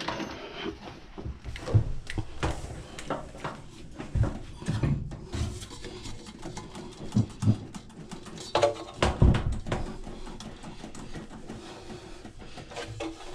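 Irregular knocks, thumps and rattles of hands and tools handling a front-load washing machine's cabinet and panels, with a heavier thud about four seconds in and another about nine seconds in.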